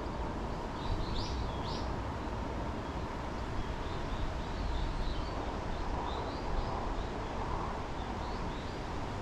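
Small birds chirping in short high calls: two clearer chirps about a second in, then a run of fainter ones in the middle, over a steady low background rumble.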